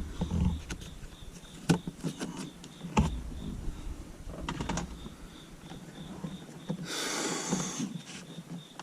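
Scattered clicks and knocks of plastic interior trim and a dash cam power cable being handled and tucked into the trim, with a short rustle about seven seconds in.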